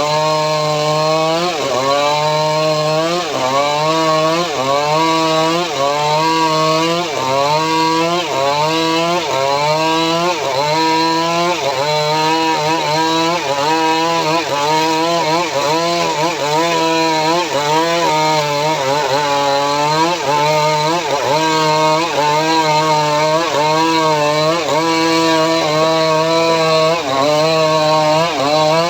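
Homemade engine-powered saw cutting sengon (albizia) wood, its engine note dipping and recovering in a steady rhythm about every second and a quarter as the blade bites and frees in the log.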